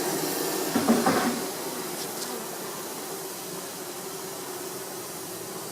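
Honeybees buzzing around an open hive, a steady hum. A few knocks from handling the hive around a second in.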